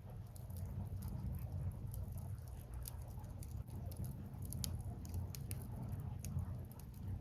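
Burning firewood crackling, with irregular sharp pops, a few louder ones, over a low steady rumble of the fire.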